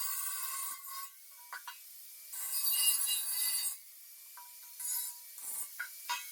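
Abrasive power tool working on steel: a stretch of grinding that stops about a second in, a second short pass a little later, and a few light metallic clicks between them.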